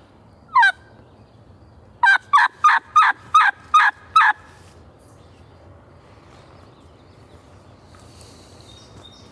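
Turkey call sounding hen yelps, close and loud: one short rising note, then a run of seven yelps, each breaking downward in pitch, about three a second.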